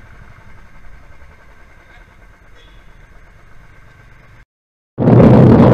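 Motorcycle engine running low and steady as the bike rolls slowly. About four and a half seconds in the sound cuts out for half a second, then a loud, rough noise starts abruptly near the end.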